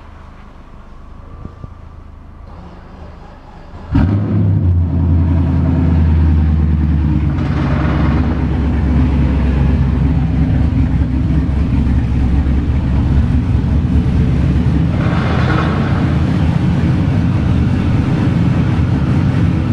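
BMW E30's engine, being jump-started on jumper cables, catches suddenly about four seconds in and keeps running loudly with a low, steady rumble.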